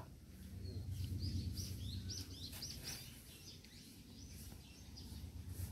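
A small bird chirping in the background: a quick run of short, high notes in the first three seconds, then a few scattered chirps, over a low steady background hum.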